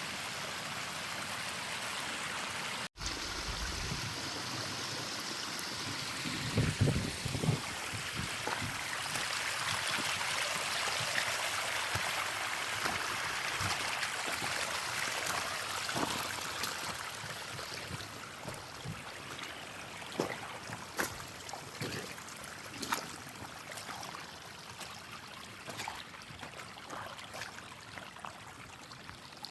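Flowing stream water rushing steadily, with a few low knocks about seven seconds in and a brief break in the sound near the start; the rush grows gradually fainter over the second half.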